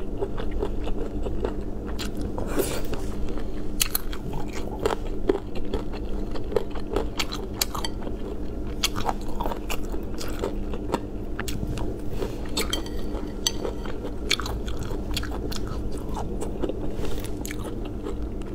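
Close-up chewing and biting on lemon-soured chicken feet and bamboo shoot strips: wet, crunchy mouth sounds with frequent short clicks, over a steady low hum.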